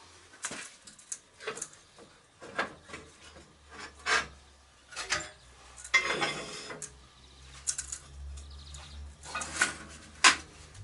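Irregular knocks and clinks of small metal pieces and tools being handled on a workbench, with a longer scraping clatter about six seconds in.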